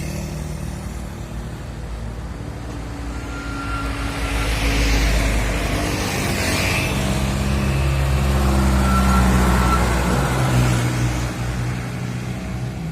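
Heavy diesel truck engines running as they climb a steep hill, getting louder in the middle as the trucks come closer.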